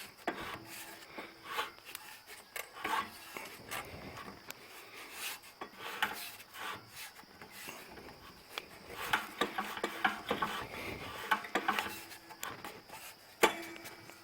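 Strap wrench scraping and clicking against the clutch of a go-kart buggy's small engine as the engine is rocked back and forth by hand, in irregular strokes with one sharp click near the end. The engine binds partway round, which the owner suspects is a stuck valve or rust in the cylinder.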